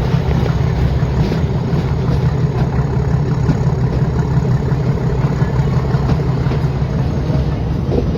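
Metre-gauge train hauled by a YDM-4 diesel locomotive, heard from aboard: a steady, loud, low rumble that does not change.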